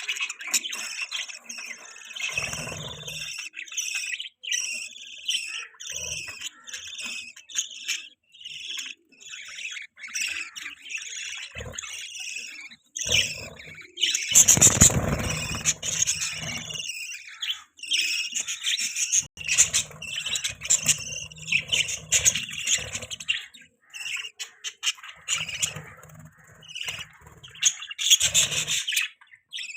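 Budgerigars chattering and warbling in a continuous run of quick, high chirps, with a louder, noisier burst about halfway through.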